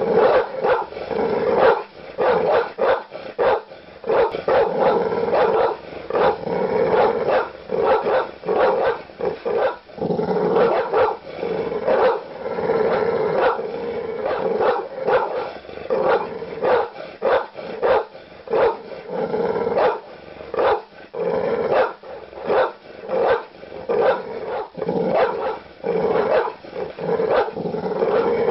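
Large dog barking aggressively with deep, loud barks that come one to three a second at irregular spacing.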